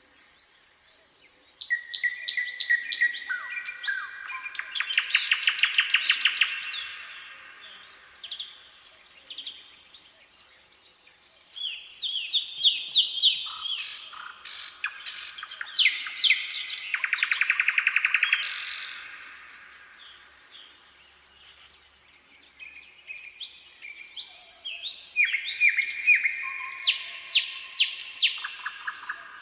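Nightingale singing in three long phrases with short pauses between them. Each phrase mixes varied whistled notes with very fast repeated notes, the loudest being rapid stuttering runs about a third and two thirds of the way through.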